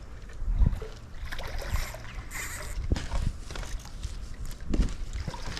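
Irregular knocks and thumps in a small fishing boat, with short hissing rustles in between: handling gear and a fish on board.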